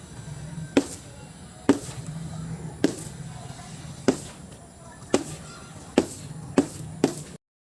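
A series of sharp impacts, eight in all, roughly one a second and coming faster near the end, over a steady low hum. The sound cuts off abruptly just before the end.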